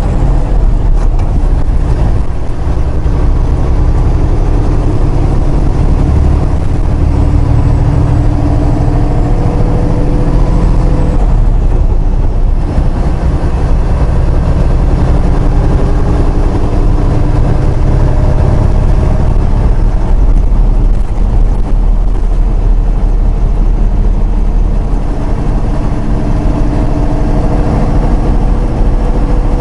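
Semi truck's diesel engine heard from inside the cab while driving, running steadily under load with its pitch climbing and dropping back several times.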